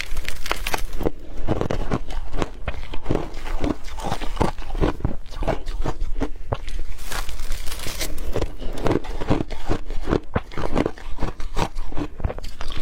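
Hard crushed ice being chewed: loud, rapid, irregular crunches, one after another.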